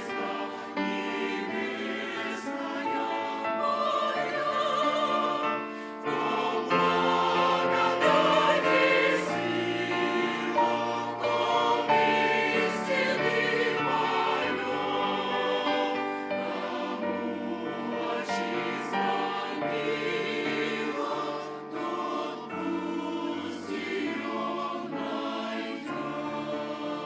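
Choir singing a Christian song with held, wavering voices and a low sustained bass line beneath.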